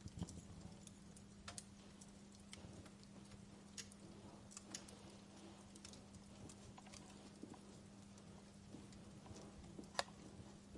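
Wood fire crackling softly in a fireplace: scattered small pops and ticks, with a sharper pop about ten seconds in, over a faint steady low hum.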